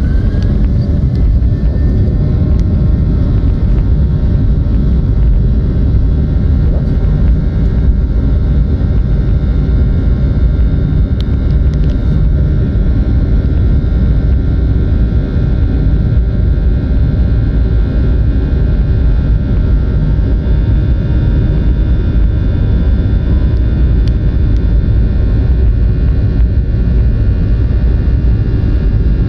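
Boeing 737-800's CFM56 turbofan engines at takeoff power, heard inside the cabin as a loud, steady rumble with an engine whine that rises in pitch in the first second or so.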